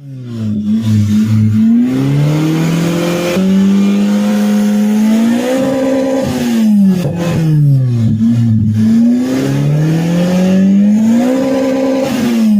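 Toyota 2ZZ four-cylinder engine swapped into a 1986 Corolla EE80, revved hard several times: the pitch climbs to a high steady note, holds, then falls back before climbing again.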